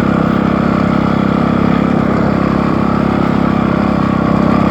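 Dirt bike engine running at a steady pace while riding, with an even, pulsing drone.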